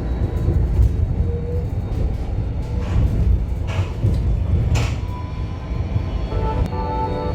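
Tram running, a steady low rumble, with a few short hissing noises partway through. Music comes in near the end.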